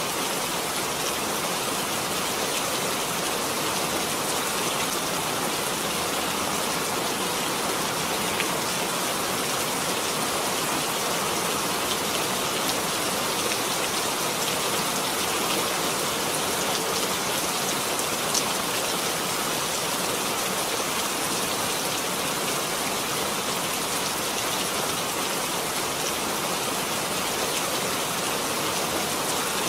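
Steady, even rainfall, with drops pattering on surfaces.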